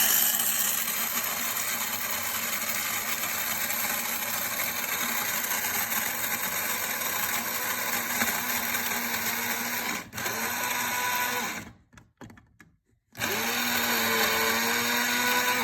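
Electric coffee grinder grinding a cup of dry kibble. Its motor runs steadily for a long stretch, stops for about a second and a half near the end, then starts again, spinning up and running on.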